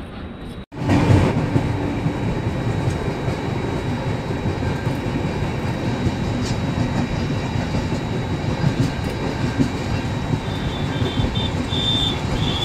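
Passenger train running at speed, heard at an open coach doorway: a steady rumble of wheels on the track mixed with rushing air.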